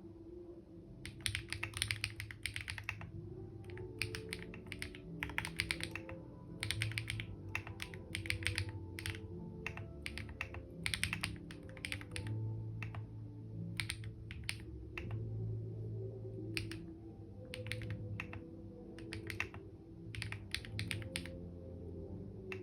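Typing on a computer keyboard: bursts of quick key clicks with short pauses between them, starting about a second in and stopping near the end. Soft background music with sustained low notes plays underneath.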